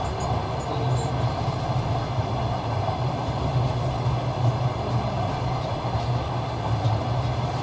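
A train running along the track: a steady, even rumble of the wheels and carriages.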